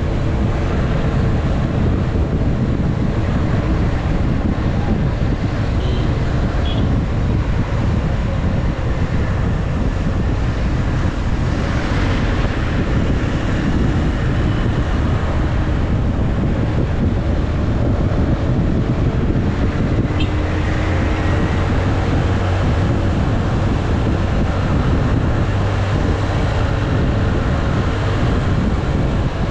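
Motorcycle engine running steadily while riding, with wind noise rushing over the microphone.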